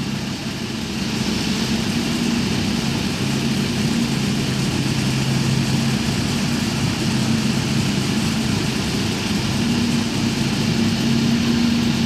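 Combine harvester's diesel engine running steadily at a constant speed, a continuous low drone with mechanical clatter.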